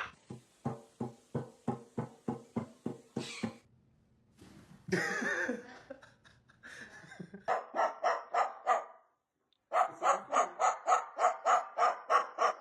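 Rapid runs of short barks, about three a second at first, then after two short breaks faster runs of about five a second.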